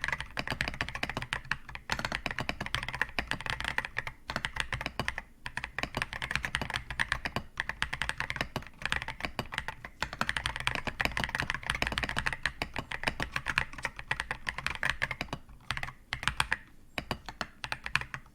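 Fast typing on a mechanical keyboard with non-clicky switches: a dense, uneven run of keystrokes with short pauses about two, four and five seconds in, thinning to scattered strokes near the end.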